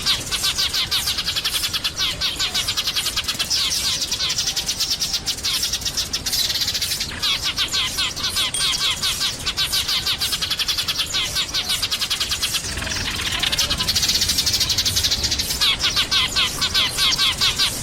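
A flock of sparrows chirping, a dense, fast run of short chirps with no break.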